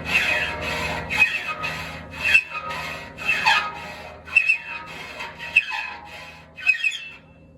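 Hand file rasping across the steel teeth of a sawmill saw blade, a stroke about once a second with a ringing metallic edge. The worn, shortened teeth are being sharpened by hand, with a little lead filed into their faces.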